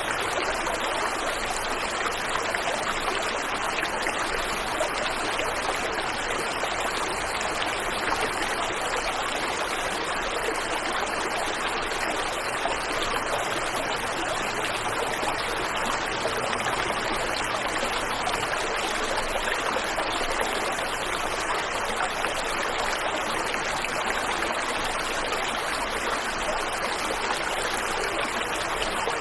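Waterfall and river water rushing steadily, an even hiss of flowing water without pauses.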